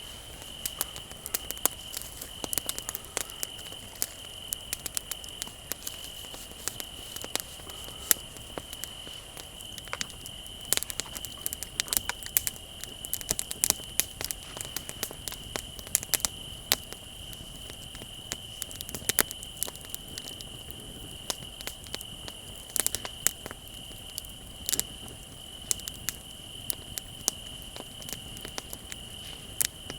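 Wood bonfire crackling, with frequent sharp irregular pops and snaps, over a steady high trill of crickets.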